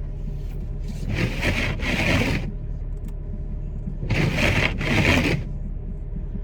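Snow being scraped off a car's windshield: two long scraping strokes about three seconds apart. Under them runs the steady low hum of the car's engine idling.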